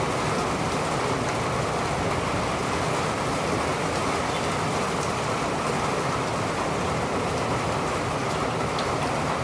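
Steady, even downpour of rain, with faint scattered drop ticks.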